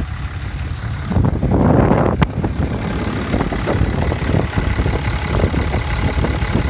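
Ram 2500's 6.7-litre Cummins inline-six turbo diesel idling with a steady low rumble through its custom exhaust, which has no catalytic converters. Wind buffets the microphone, loudest between about one and two seconds in, and there is one sharp click just after.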